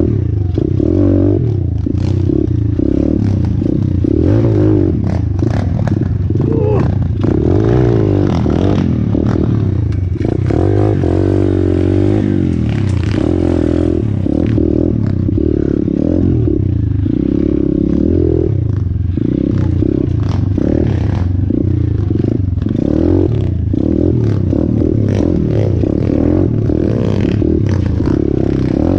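Orion AGB 37 125cc pit bike engine running under load while riding, revs rising and falling as the throttle is worked, with a longer climb and drop in the middle. Rattling and clattering knocks from the bike over rough ground run through it.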